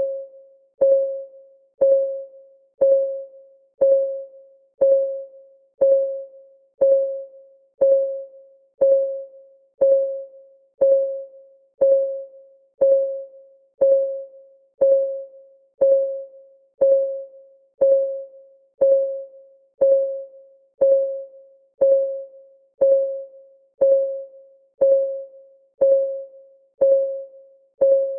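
Countdown timer's ticking clock sound: a steady tick once a second, each a sharp click with a short ringing tone that dies away.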